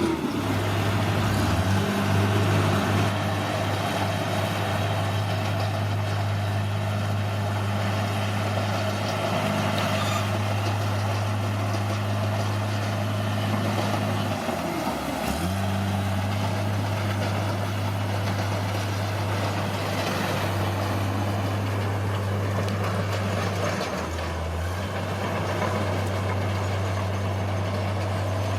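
Bulldozer's heavy diesel engine running steadily at a constant speed, with its pitch sagging briefly twice before recovering.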